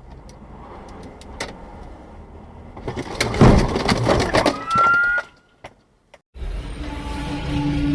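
Road vehicle collision: a loud crunching burst full of sharp knocks, with a short rising squeal as it ends. After a brief cut, low steady vehicle running noise begins.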